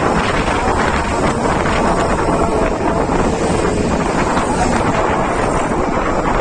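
Loud, steady wind noise buffeting the microphone of someone travelling along a road.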